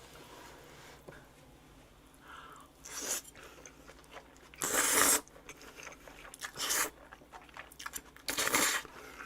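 Close-up crunching and chewing of a mouthful of boiled pork wrapped in fresh napa-cabbage kimchi: a few separate crisp crunches, the loudest about five seconds in.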